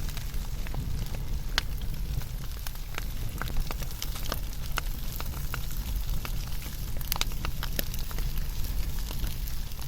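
Wood fire burning: a steady low rumble of the flames with irregular sharp crackles and pops, several a second, a cluster of louder pops about seven seconds in.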